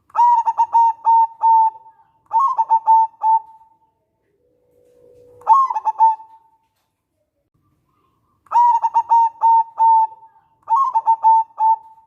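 Zebra dove (perkutut) singing its cooing song. It runs as phrases of quick, clipped coos on a steady pitch, one phrase starting on a long low note that jumps up into the coos. The pattern falls silent for about two seconds, then repeats.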